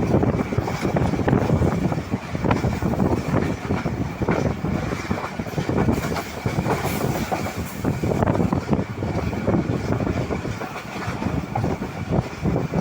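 Train running fast: a loud, steady rumble of the wheels on the track with frequent sharp clacks.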